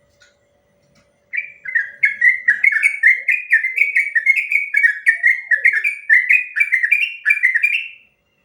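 Sooty-headed bulbul (trucuk) singing a long, fast run of short repeated falling notes, about three a second. The run starts about a second in and stops shortly before the end.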